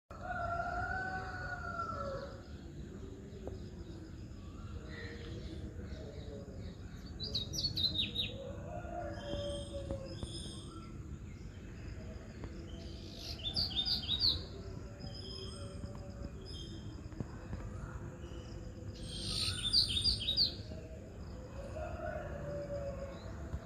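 Birds singing: three bursts of rapid, high, down-slurred notes about six seconds apart, with softer lower whistled calls between them over a steady low background noise.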